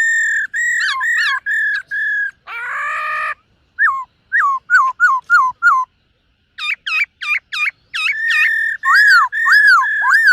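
Black-throated laughingthrush singing: clear whistled notes, a short harsh rasping note about three seconds in, then a quick run of short down-slurred whistles. After a brief pause it gives a series of looping, rising-and-falling whistles.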